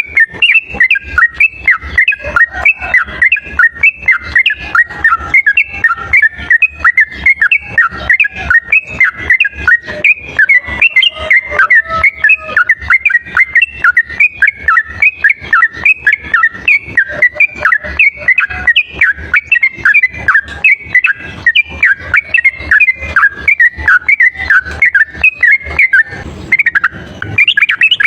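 Yellow-vented bulbul (trucuk) singing a rapid, unbroken chattering song of short whistled chirps, several notes a second. This is a long lure call (pikat) for attracting wild bulbuls. The song falters briefly near the end before starting up again.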